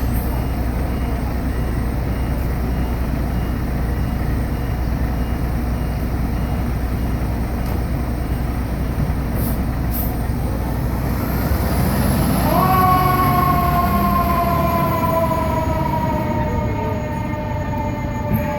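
Steady low rumble of a fire engine and street traffic, then about two-thirds of the way in a fire engine's mechanical siren spins up quickly to a full wail and slowly winds back down in pitch.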